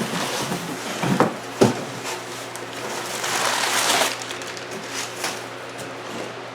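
Cardboard shipping box being handled and opened: two sharp knocks about a second in, then a few seconds of scraping and rustling of cardboard and packing, and a few light clicks near the end.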